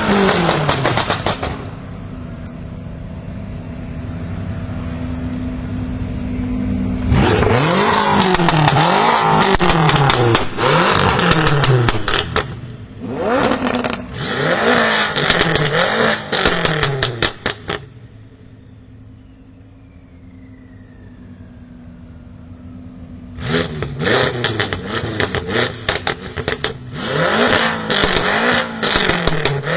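BMW M5 F10's twin-turbo V8 with catless downpipes being revved in runs of quick blips, each rev falling away into a rattle of crackles and pops, and idling between the runs, once near the start and again for several seconds past the middle.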